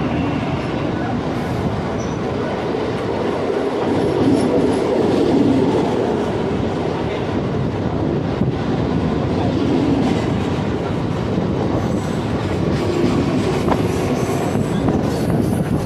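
Mumbai suburban local train, an electric multiple unit, running on the rails with a steady, loud rumble of wheels and carriages.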